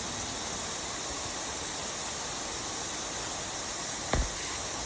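Steady rushing hiss, even across high and low pitches, with a single low thump about four seconds in.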